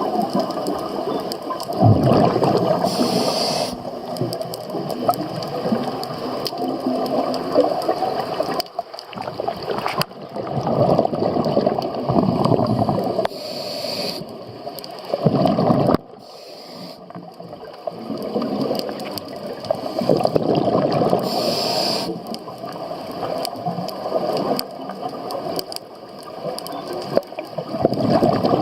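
A scuba diver breathing through a regulator underwater. Long spells of crackling, bubbling exhaust from the exhales are broken three times by a short hiss of an inhale.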